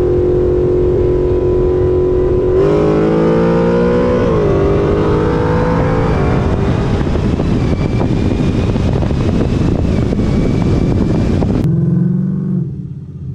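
Car engines at full throttle in a roll race. A steady cruising note jumps about two and a half seconds in, climbs in pitch, drops briefly at a gear shift, then climbs again into a loud rush of engine and wind noise at speed. It cuts off abruptly near the end to a much quieter engine sound.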